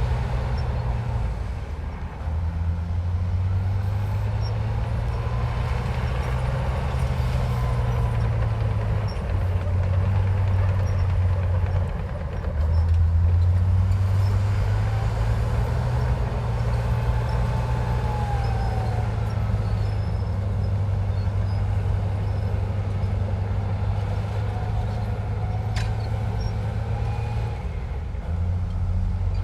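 Komatsu bulldozer's heavy diesel engine working under load, a deep continuous drone whose pitch and loudness shift every few seconds as the machine pushes and eases off, loudest about thirteen seconds in, with a fainter rising and falling whine above it.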